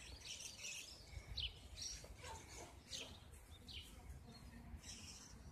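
Faint, scattered short chirps of birds, with a faint low rumble beneath.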